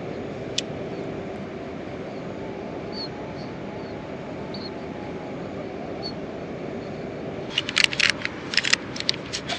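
Heavy rain falling steadily, with a quick run of sharp clicks and taps near the end.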